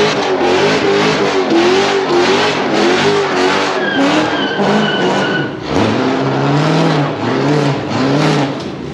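A vehicle engine running hard at high revs, its pitch rising and falling over and over, over a steady rush of wind and tyre noise. The revs drop lower about six seconds in.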